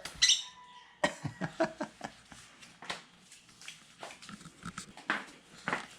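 A pet yellow bird making short soft chirps amid scattered small clicks and taps, with one sharper sound about a quarter second in.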